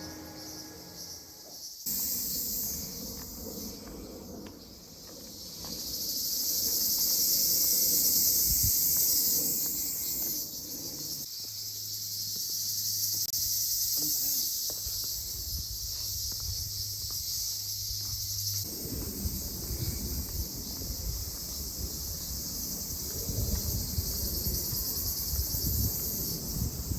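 Insects shrilling in a dense, steady, high-pitched summer chorus, with a low rumble underneath. The chorus jumps abruptly in loudness a few times.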